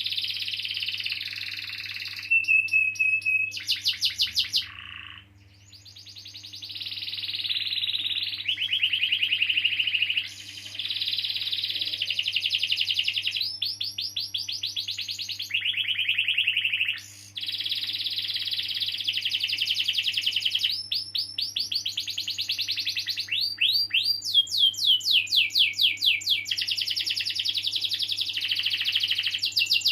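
Domestic canary singing a long rolling song: extended rapid trills and runs of fast repeated chirps, broken only by a short pause about five seconds in.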